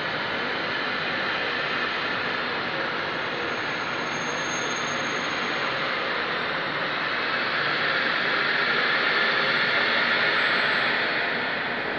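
Electric train in the station, a steady whooshing machinery noise that swells about two-thirds of the way through and eases near the end.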